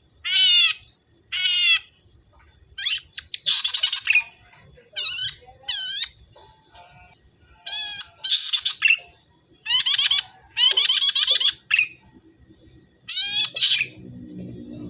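Golden-headed cisticola (cici merah) calling: a run of short, buzzy chattering phrases made of rapid down-slurred notes, repeated with brief pauses between them. A low hum comes in near the end.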